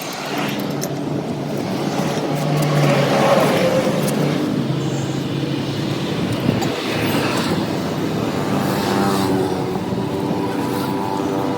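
A motor running steadily with a low pitched hum that shifts pitch a few times, plus a single knock about six and a half seconds in.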